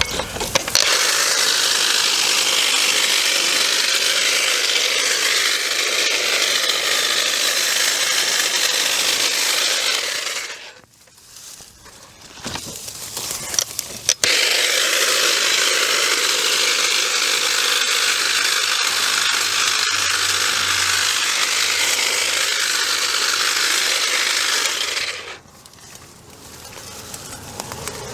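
Electric brush-cutting power tool running under load as it cuts through brush and vines, in two long runs of about ten seconds each with a short pause between.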